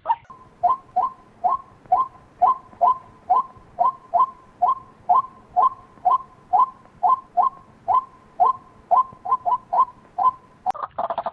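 White-breasted waterhen calling: a long, even series of short notes repeated about two a second.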